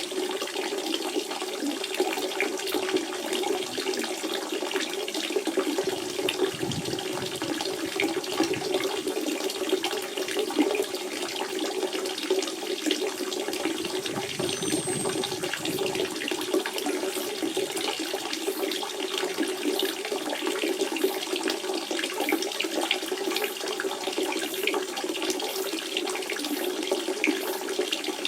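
Spring water running and trickling steadily, with a continuous splashing burble.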